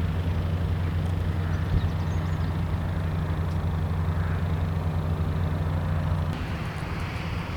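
Light aircraft's piston engine and propeller running steadily, a low drone that drops away somewhat about six seconds in.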